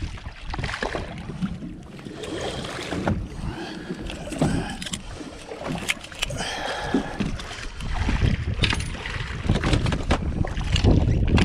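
Wind buffeting the microphone over water sloshing, with a few short pitched calls that rise and fall in the middle.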